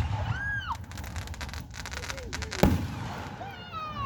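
Aerial fireworks: a rapid run of crackles, then a single loud boom about two and a half seconds in.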